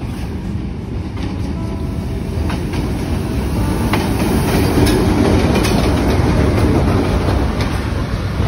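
Diesel locomotive hauling a passenger train along the platform track, its engine rumble growing louder as it comes up and passes about four seconds in. The coaches then roll by, their wheels clicking over the rail joints.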